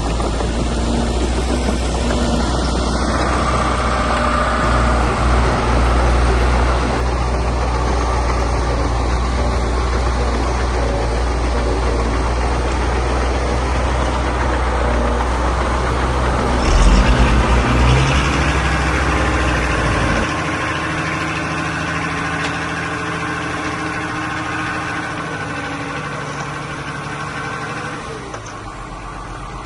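Diesel engine of heavy earthmoving machinery running steadily, with a louder rattling burst about two-thirds of the way in. Soon after, the deep low hum cuts out and the engine sound fades gradually.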